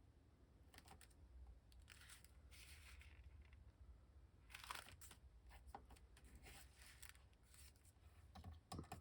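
Faint rustling of paper and card being handled, in several short spells, the most distinct a little past halfway.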